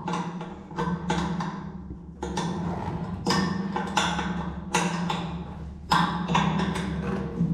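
Repeated sharp knocks at an uneven pace, about one a second, over a steady low hum.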